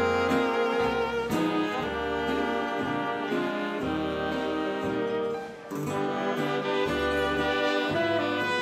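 A big band dance orchestra playing a slow 1930s ballad, with sustained strings and saxophones over a steady plodding bass, and a brief lull between phrases about five and a half seconds in.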